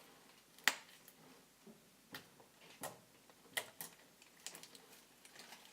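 Slime being squeezed and worked by hand, giving faint, irregular sharp clicks. The loudest click comes less than a second in, and about half a dozen more follow.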